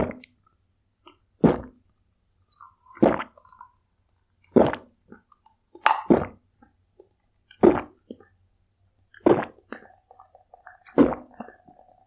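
A person gulping down cola: about eight loud swallows, one every second and a half or so.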